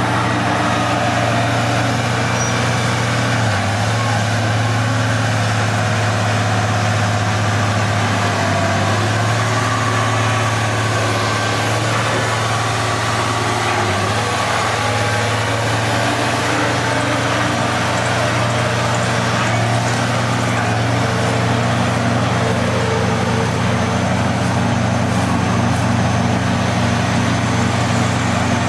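Heavy vehicle engine running steadily, its low drone shifting slightly in pitch a few times.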